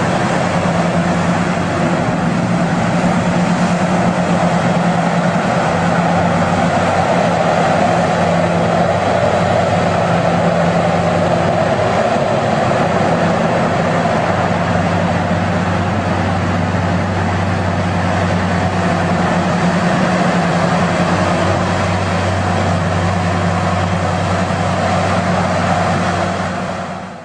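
Heavy machinery running steadily: a loud, continuous engine drone with a constant mechanical clatter. It cuts off suddenly at the end.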